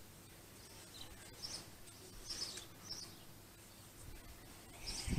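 Faint outdoor ambience with a few short, high bird chirps.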